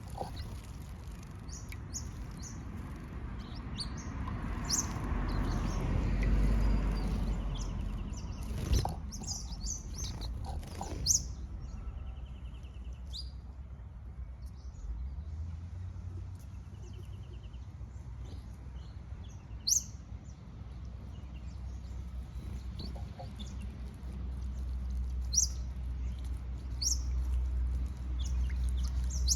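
Red-capped parrots calling in short, sharp, high chirps, scattered and irregular, over a low rumble.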